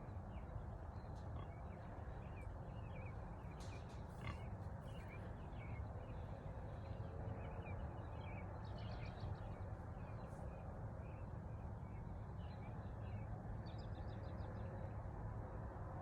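Steady low outdoor rumble with many faint, short, high chirps of small birds calling throughout, including a couple of quick trills.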